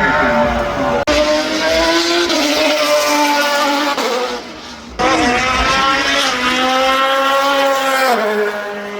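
Racing car engines under hard acceleration, in short clips joined by abrupt cuts about a second in and at about five seconds. The engine note climbs and holds, then drops sharply at an upshift near four seconds and again near eight seconds.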